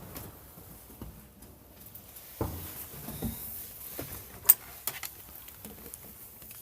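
Scattered knocks and clicks of objects being handled, with one sharp click about four and a half seconds in.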